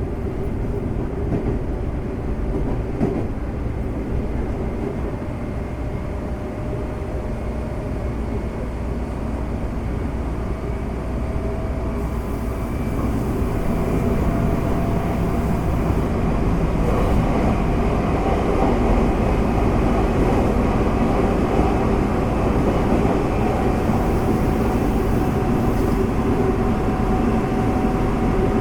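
In-car running sound of a Semboku Rapid Railway 5000 series train: rumble of wheels on rail, with a faint whine from its Hitachi GTO VVVF inverter drive slowly rising in pitch, then holding steady. The sound grows louder about halfway through.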